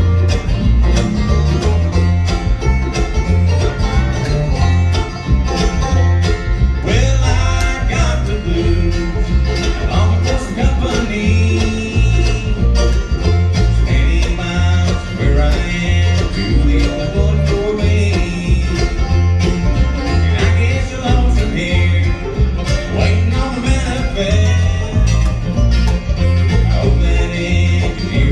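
A bluegrass band playing an instrumental break, with banjo and acoustic guitar picking over a bass that alternates notes on a steady beat.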